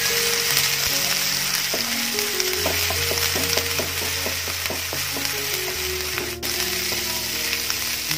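Ginger-garlic-green chilli paste sizzling in hot oil in a nonstick frying pan. A wooden spatula stirs it, with a run of light scrapes and taps on the pan about three seconds in.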